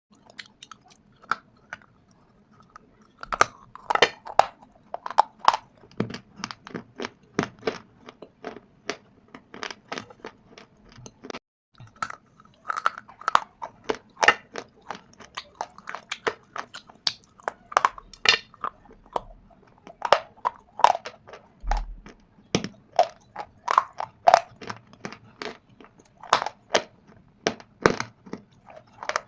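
Shale stone and clay (mitti) being bitten and chewed: a rapid, irregular run of sharp crunches, broken by a brief gap about eleven seconds in.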